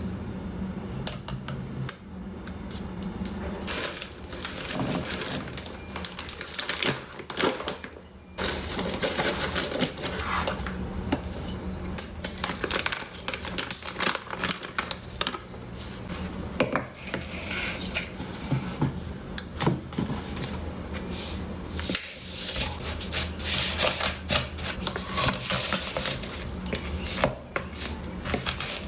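Kitchen utensils and dishes clinking and clattering irregularly, over a steady low hum.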